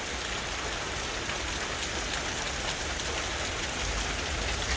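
Heavy rain falling steadily, coming straight down off a roof and splashing onto the ground and brick wall, an even hiss with a low rumble beneath.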